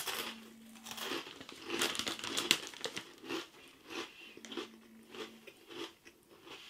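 Someone crunching and chewing Jacob's Mini Cheddar Sticks, small baked cheese biscuit sticks, close to the microphone. The crunches come irregularly and are densest about two seconds in.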